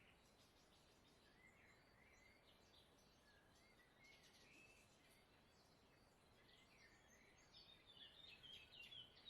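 Near silence: faint background hiss with scattered small bird chirps, which grow busier and a little louder near the end.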